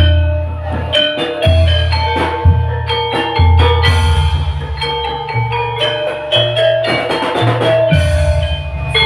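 Live gamelan-style music: quick melodies of struck metal bars over drums and deep, held low notes that change about once a second.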